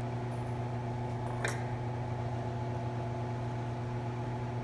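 Steady low machine hum, like a fan or similar appliance running, with one sharp click about a second and a half in.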